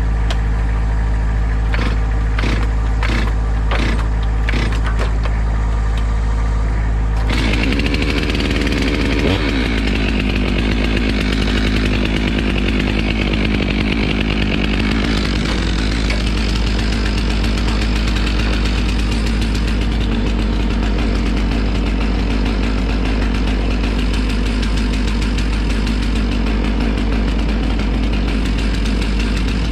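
A steady engine idle, with a string of sharp knocks in the first few seconds. About seven seconds in, a chainsaw starts running loudly over it and keeps going.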